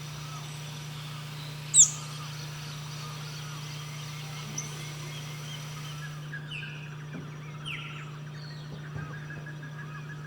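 Wild birds calling and chirping, with one loud, sharp, falling call about two seconds in, over a steady low hum.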